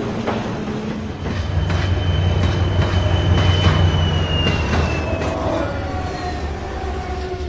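A train running past: a low rumble that builds and then eases off, with irregular wheel clicks and a thin squeal sliding slowly down in pitch.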